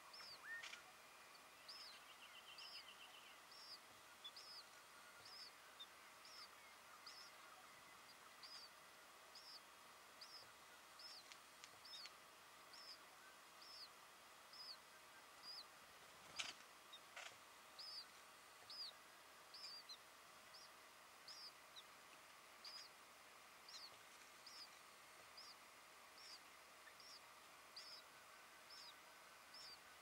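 Faint, a small bird repeating a short high chirp a little more than once a second, with a brief trill about two seconds in and two sharp clicks just past halfway.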